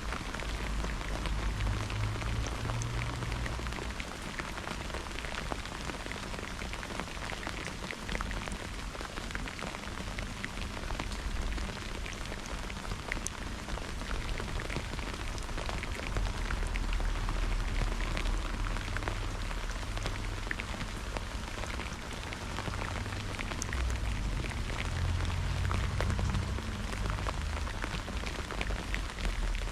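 Steady rain during a thunderstorm, with many close drops ticking, over a low rumble that swells a few times, strongest about halfway through and again near the end.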